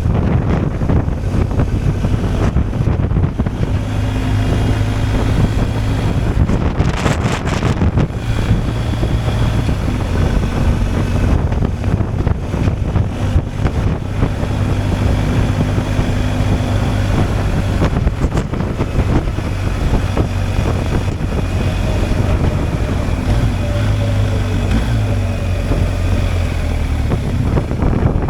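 BMW R 1250 GSA's boxer twin engine running at a steady cruise, with wind rushing over the microphone.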